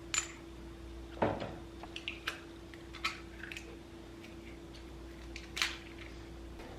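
A handful of short, light clicks and knocks from household objects being handled, the loudest a duller knock about a second in, over a steady faint hum.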